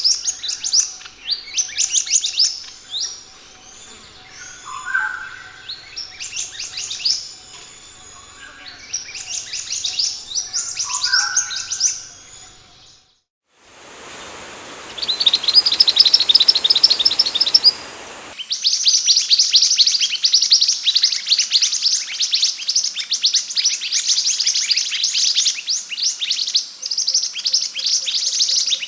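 Scarlet minivet (sepah hutan) song: bursts of quick, high, falling chirps. A break about 13 seconds in is followed by a hissy stretch with a fast high trill, then a dense, unbroken run of rapid chirps.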